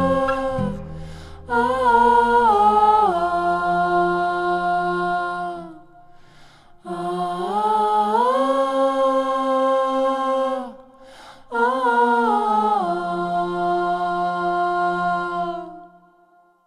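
Slowed-down wordless vocal outro, hummed or sung without words, in three long held phrases that glide between notes. A low bass line stops partway through, and the last phrase fades out at the end of the song.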